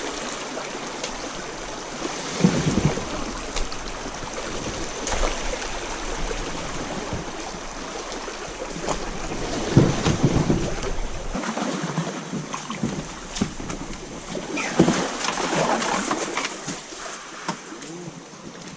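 A kayak being paddled along a river: water splashing and swishing with the paddle strokes, with scattered short knocks.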